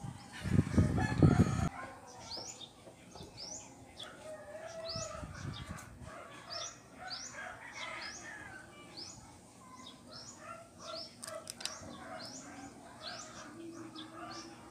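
Birds calling in the background: a short high chirp repeated about twice a second, with lower clucking calls like chickens between. A brief loud low rumble comes in the first two seconds.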